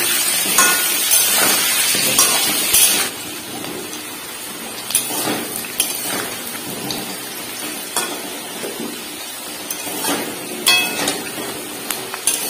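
Potato chunks frying in hot mustard oil in a metal kadai, with a steady sizzle and a steel spatula scraping and clinking against the pan as they are stirred. The sizzle is louder for the first three seconds and then drops.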